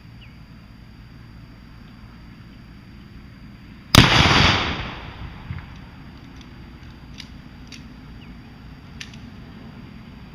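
A single gunshot about four seconds in, a sharp crack whose sound dies away over about a second, followed by a few faint clicks.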